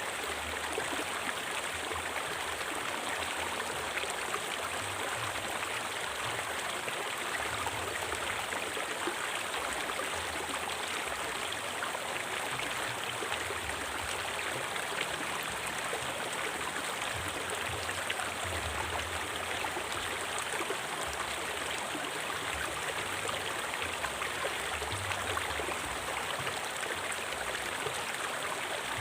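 River water flowing steadily over rocks, a constant rushing and babbling with no breaks.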